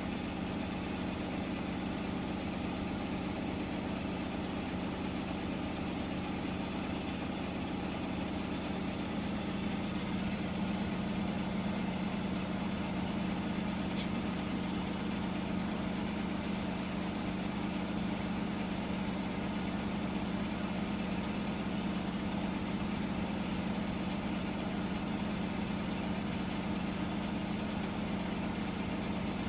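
Hotpoint washing machine running steadily in the last minute of its cycle, a low, even hum that grows slightly louder about ten seconds in.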